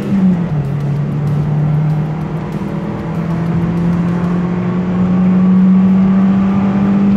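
Toyota Calya's 1.2-litre dual VVT-i four-cylinder engine at full throttle, heard from inside the cabin. Its note drops about half a second in as it is shifted up a gear, holds low briefly, then climbs steadily as the car accelerates.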